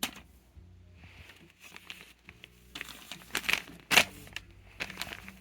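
Fidget toys and their plastic being handled: crinkling with scattered sharp clicks and taps, one at the very start and the loudest about four seconds in.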